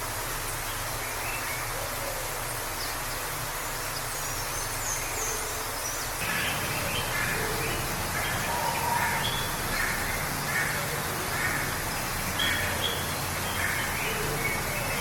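Waterfall rushing steadily. From about six seconds in, a bird calls with a run of short chirps repeated one or two a second.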